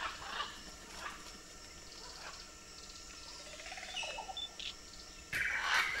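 Wild birds calling in rainforest: scattered faint chirps and short calls, then a much louder harsh, raspy squawk starts about five seconds in.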